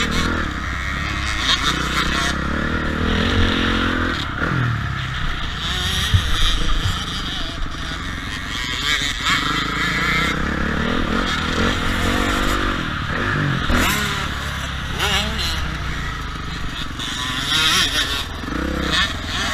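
Motocross dirt bike engines revving up and easing off again and again as they ride the track. The pitch rises and falls repeatedly throughout.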